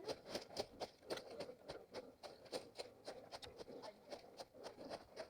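Faint, quick and even footsteps of a runner on the forest floor.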